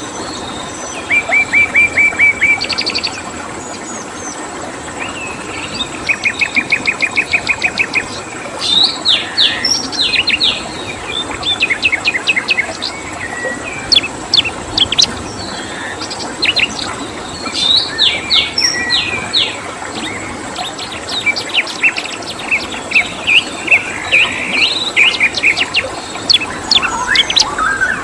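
Several songbirds chirping and calling, with quick runs of evenly repeated notes (about ten a second) and sweeping chirps, over a steady background hiss and a thin high steady tone.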